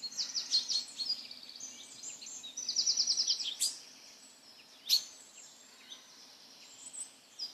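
Small birds chirping: scattered high calls, a fast trill of about ten notes a second around three seconds in, and two sharp high chirps near the middle, over a faint outdoor hiss.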